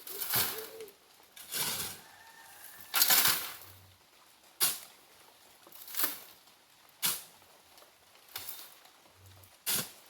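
Shovels scooping and tossing sand, a short scrape-and-swish about every second and a half, eight strokes in all.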